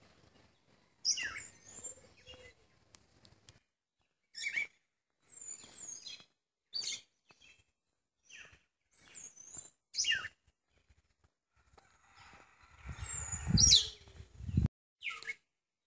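Birds chirping in short bursts of high, quickly falling notes with silent gaps between them. Near the end a louder low rumble swells under a sharp call and stops suddenly.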